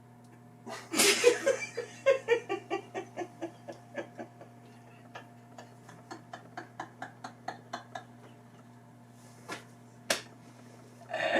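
A person laughing: a loud outburst about a second in, then a long run of rhythmic ha-ha pulses that gradually fade away over several seconds. A steady low hum runs underneath.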